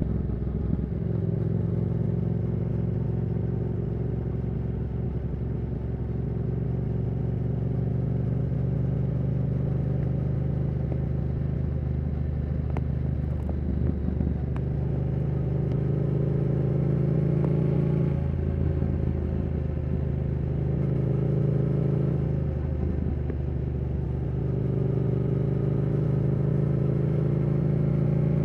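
Yamaha R7's 689 cc CP2 parallel-twin engine running through a Yoshimura R77 exhaust while the bike cruises at a fairly steady engine speed. The pitch shifts briefly a few times, about halfway through and again a few seconds later.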